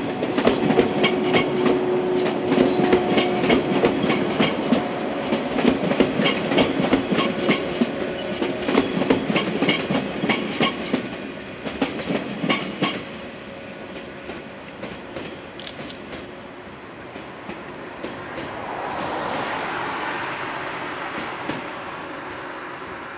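Okayama depot's set A01, a yellow electric train, running past on the rails. Its wheels click in a steady rhythm over the rail joints and there is a steady hum at first. The sound fades about halfway through as the train pulls away, with a brief swell of rushing noise near the end.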